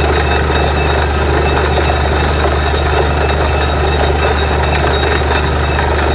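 Borewell drilling rig's engine running steadily under a loud, constant low hum.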